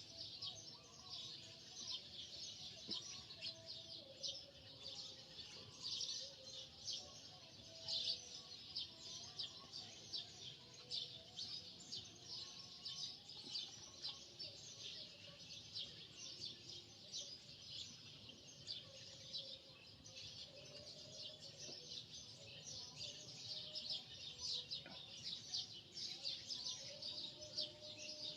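Many small birds chirping: a dense, unbroken chorus of quick high chirps.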